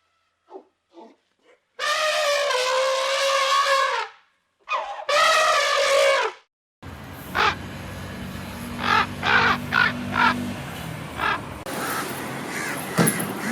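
Animal calls: two long, loud, brassy calls, the first lasting about two seconds, then a cut to short calls over the steady hum of an idling vehicle engine.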